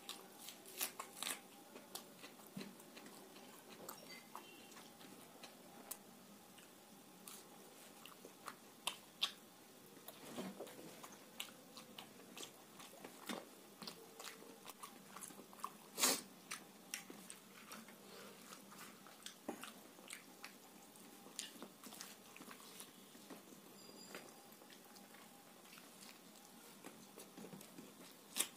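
A person chewing and eating puri with curry by hand at close range: irregular soft mouth clicks and smacks, with one sharper click a little past the middle.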